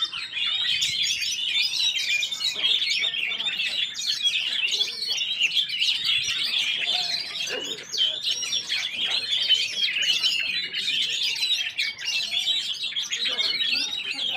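Many caged songbirds singing at once on a full contest rack: a dense, continuous chorus of overlapping high chirps and trills.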